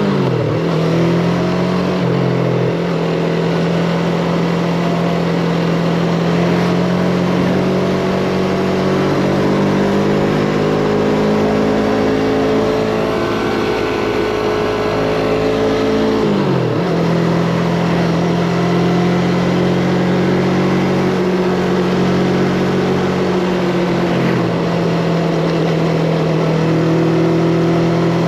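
Yamaha MT-25's parallel-twin engine running as the motorcycle rides along, its note holding fairly steady with slow changes in pitch. The engine note drops sharply twice, once just after the start and again a little past halfway, then settles.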